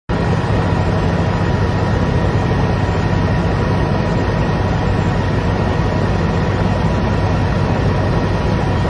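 Helicopter engine and rotor noise: a loud, steady, low drone that cuts in abruptly at the start.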